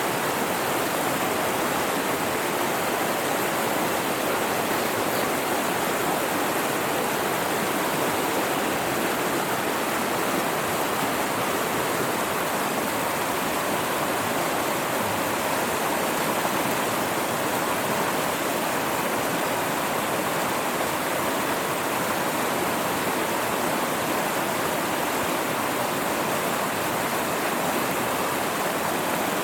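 A mountain river rushing, a steady, even roar of flowing water with no break or change.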